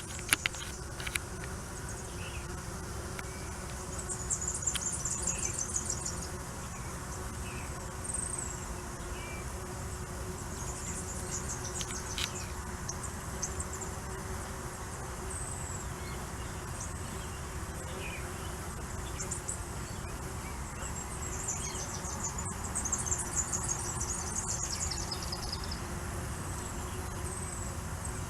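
Steady buzzing hum of many Tetragonula stingless bees flying in and out of the nest entrance. Repeated high-pitched chirping trills come and go over the hum, with a few clicks right at the start.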